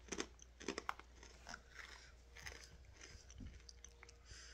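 Faint close-up crunching of cat treats being bitten and chewed: a quick run of crisp crunches in the first second and a half, then softer, sparser chewing.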